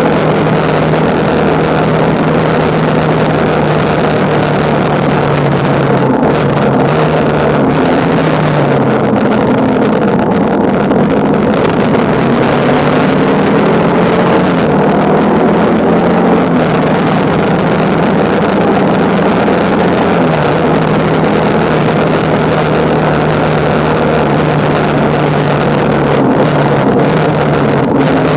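Motorcycle engine under way on the road, its note climbing and dropping back several times as the revs and gears change, with wind rushing over the microphone.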